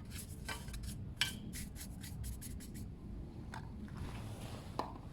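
Brillo pad scrubbing a stainless steel motorcycle exhaust pipe, scouring off burnt-on black. It gives a quick run of short rubbing strokes about a second in, then a few separate scrapes near the end.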